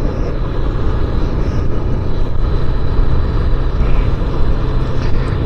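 Motorcycle on the move: steady engine and road rumble mixed with heavy wind rush on the microphone.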